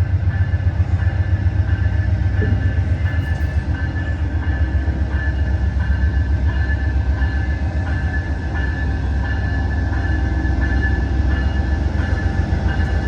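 Amtrak Coast Starlight passenger train rolling past close by: a loud, steady low rumble with a rapid pulsing beat and a steady high-pitched whine over it.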